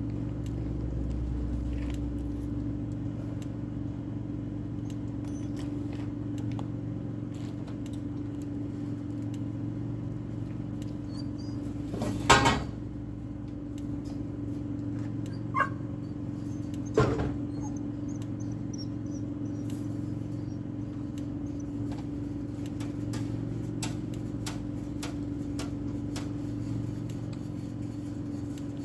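A steady low mechanical hum runs throughout, with scattered small clicks and metal clinks over it and two louder knocks or clanks, about 12 and 17 seconds in.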